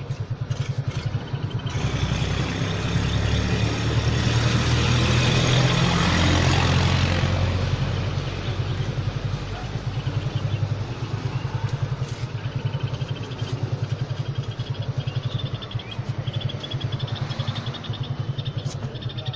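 A small engine, likely a motorcycle's, idling with a steady fast putter throughout. A louder passing vehicle swells up about two seconds in and fades away by about eight seconds.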